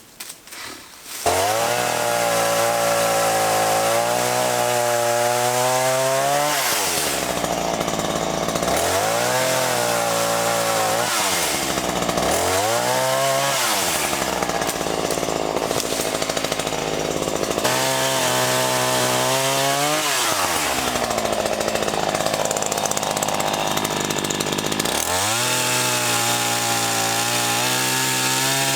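Black Max 16-inch two-stroke gas chainsaw starting up suddenly about a second in and running at high speed. Its engine is revved down and back up several times between steady stretches.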